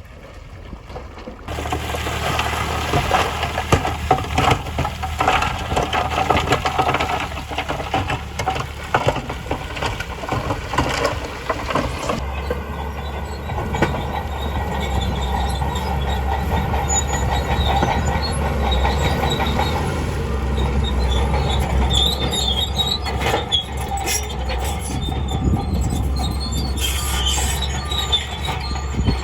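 Crawler bulldozer at work: its diesel engine runs steadily under a dense, irregular clanking and squealing of steel tracks.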